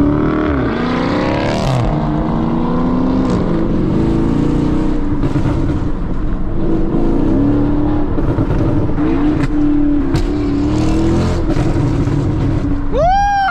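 Small car's engine pulling hard under acceleration while being driven, its pitch climbing and dropping repeatedly as it revs up and changes gear, with a quick rev up and back down near the end.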